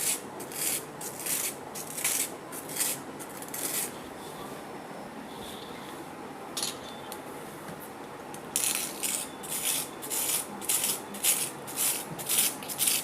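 Spoon crushing and scraping frozen fruit-syrup ice in a container, in short strokes about two a second, pausing for a few seconds in the middle before starting again.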